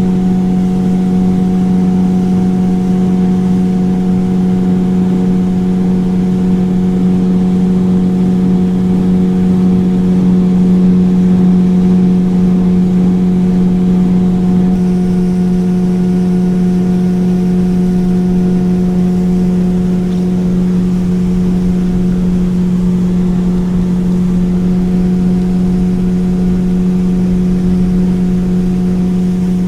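Motorboat engine running steadily at an even speed, a constant hum with no change in pitch, over a steady rushing noise.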